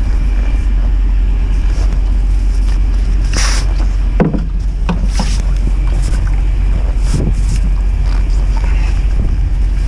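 Strong winter wind buffeting the microphone as a steady low rumble, with a few scattered knocks and clanks in the middle.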